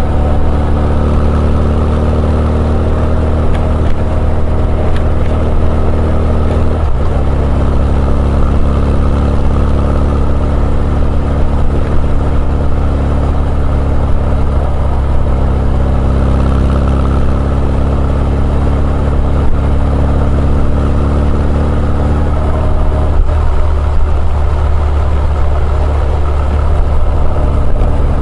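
Exhaust note of a Honda CB1100EX's air-cooled inline-four through an R's Gear Wyvern Classic aftermarket muffler while riding: a steady low drone. Its pitch drops abruptly about seven seconds in and shifts again a little past twenty-three seconds.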